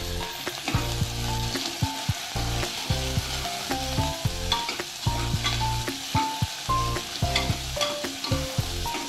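Sliced onions, green chillies and coriander sizzling in hot oil in an aluminium pressure cooker, stirred with a steel ladle that scrapes and clinks against the pot. Soft background music with a slow melody plays along.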